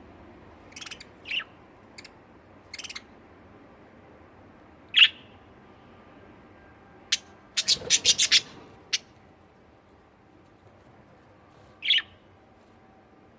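Pet budgerigars giving short, scattered chirps, with a quick run of sharp calls about eight seconds in.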